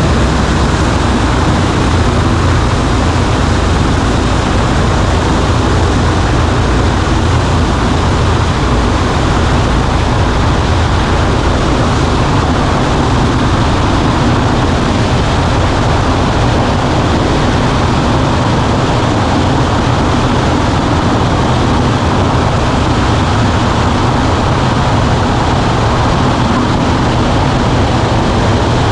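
Steady drone of a Cessna 140A's engine and propeller, heard from inside the small cockpit, with the rush of airflow over the cabin. It holds even throughout, as in level cruise.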